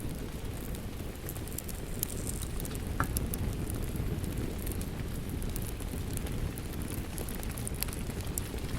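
Wood fire crackling with scattered sharp pops, the most prominent about three seconds in, over a steady hiss of rain.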